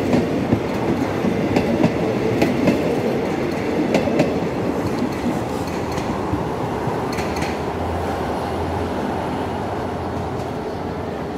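Passenger train coaches rolling past on jointed track, their wheels clacking over the rail joints. The clacks thin out and the rumble slowly fades as the last coach passes and the train pulls away.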